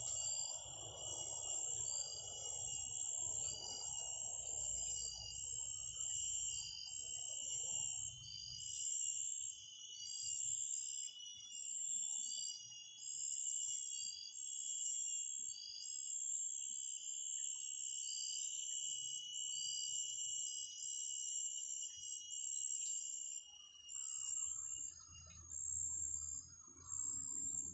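Short, high-pitched bird calls repeating evenly at about one a second, over a steady high-pitched drone of insects.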